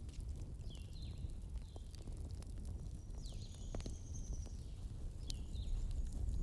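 Wood campfire burning, a low steady rumble with scattered sharp crackles and pops. A few short high chirps and one longer high whistle sound over it.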